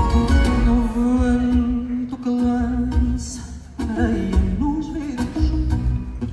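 Live fado: a woman's voice holds a long steady note over guitars and bass. About three and a half seconds in the music drops away briefly, then the voice comes back on a wavering note.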